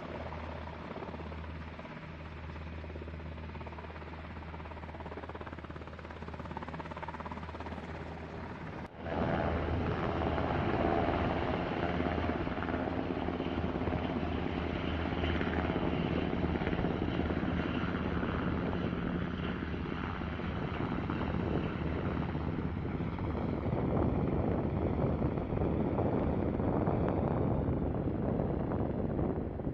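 Military aircraft engine noise, steady throughout. About nine seconds in there is an abrupt cut to a louder, fuller engine sound.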